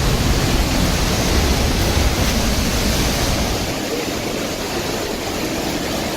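Loud, steady roar of the Pailón del Diablo waterfall, powerful falling water, its low rumble easing after about four seconds.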